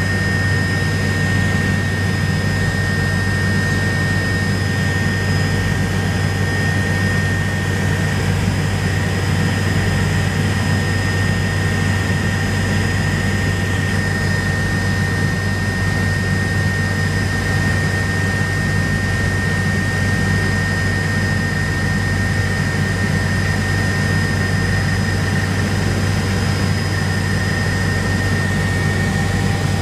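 Steady drone of a helicopter in flight, heard from inside the cabin: a deep rotor and engine hum under a constant high turbine whine.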